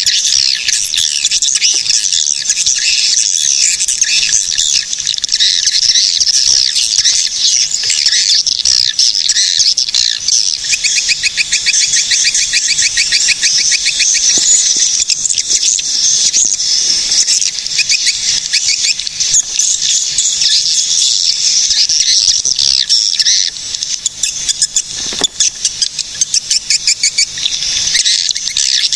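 Swiftlets twittering in a dense, continuous chorus of high chirps, with fast rattling trills in the middle.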